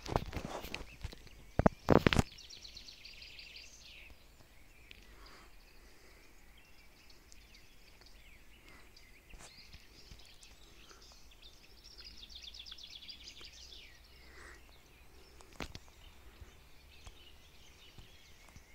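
Birds singing outdoors: two trilled song phrases made of rapid repeated notes, one a couple of seconds in and one about twelve seconds in, with faint scattered calls between. Two loud thumps come in the first two seconds.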